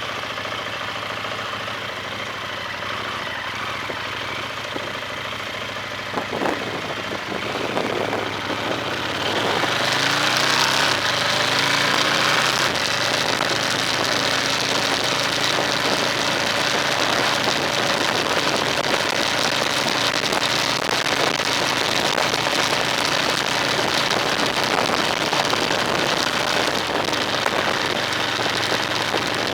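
Car engine idling, then, after a short knock about six seconds in, the car pulls away with the engine note rising as it accelerates. A steady rush of road or tyre noise follows.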